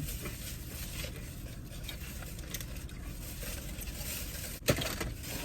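Steady low rumble inside a parked car's cabin, with small handling and rustling noises of food packaging and one sharp knock a little before the end.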